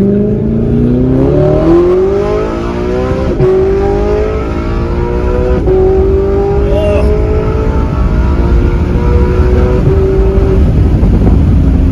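Straight-piped, naturally aspirated V8 of an Audi R8 under hard acceleration, its note climbing steadily in pitch for about ten seconds, with two sharp cracks along the way. Near the end the engine note falls away into a low rumble.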